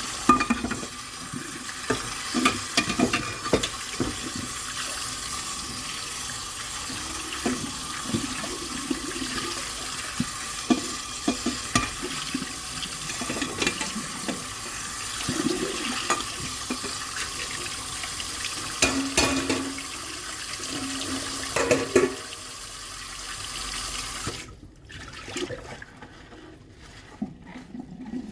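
Kitchen tap running steadily into a sink while dishes are washed, with scattered clinks and knocks of dishes. The tap shuts off about four seconds before the end, leaving only the dishes being handled.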